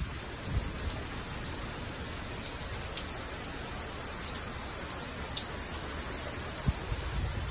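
Rain falling steadily, heard from behind window glass, with a couple of brief low thumps, about half a second in and near the end.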